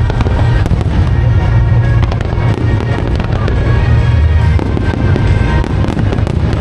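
Aerial fireworks display: repeated bangs and crackling shell bursts with a constant deep rumble, over music played through loudspeakers.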